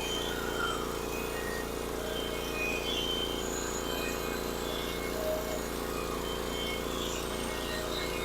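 Sawmill's engine running steadily at a constant pitch.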